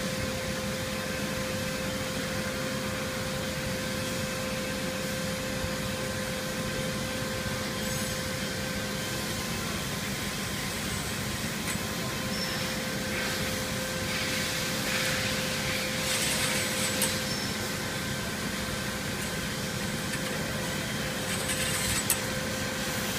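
Production-line machinery feeding saw blade past an inkjet coder, running with a steady hum and a constant whine, with a few sharp clicks and short spells of hissing noise.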